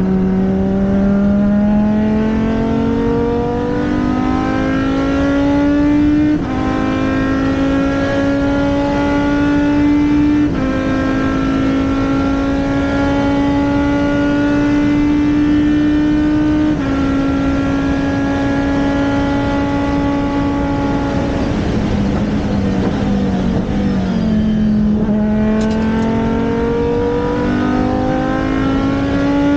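Race car engine pulling hard up through the gears, its pitch climbing and dropping sharply at each upshift, about every four to six seconds. A little past halfway it lifts off and the pitch falls through downshifts, then it accelerates again near the end.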